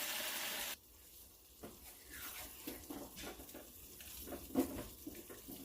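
Chicken pieces sizzling in a pot, cut off abruptly under a second in. After that come faint clinks and scrapes of a spoon stirring in the pot.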